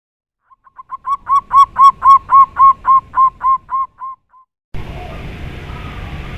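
A bird calls a fast run of about fourteen evenly spaced single notes at one pitch, about three to four a second. The run swells to loud and fades away. About three-quarters of the way in it cuts abruptly to a steady hissing outdoor background with faint bird calls.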